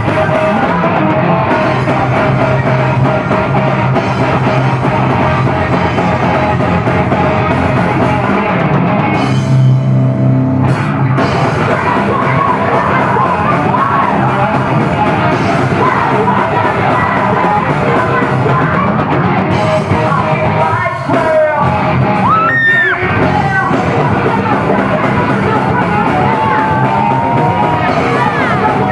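Heavy metal band playing live at loud volume: distorted guitars, bass and a drum kit, with a singer's voice over them. The music dips briefly twice about three quarters of the way through.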